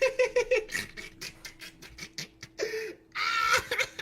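A person's voice making quick, short vocal sounds, about five or six a second, then a brief breathy sound near the end.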